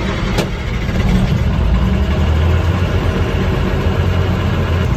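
A heavy truck engine running steadily with a deep rumble, getting a little louder about a second in.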